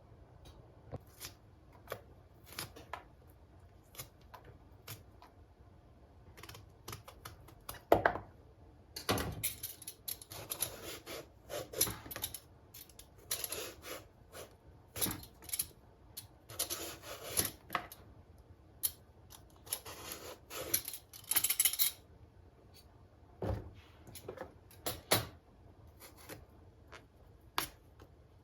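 Kitchen handling sounds: scattered light clicks and taps, with a longer stretch of rustling and crinkling in the middle.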